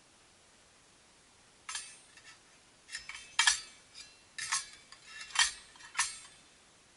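Thin metal parts of a small folding backpacking wood stove clinking and clattering against each other as they are handled. About ten light, ringing clinks come in a loose run, starting after a second and a half.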